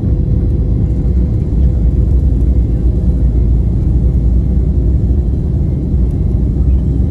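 Embraer E195 jet heard from inside the passenger cabin, its GE CF34 turbofans running under takeoff power. A loud, steady low rumble with a faint steady hum above it.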